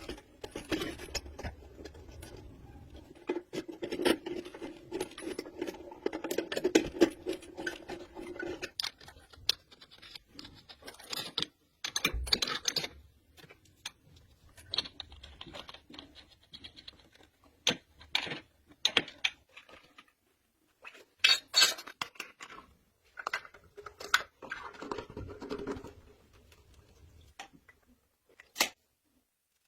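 Irregular scrapes, clicks and clinks of hand work with tools and parts, over a steady low hum that stops about nine seconds in.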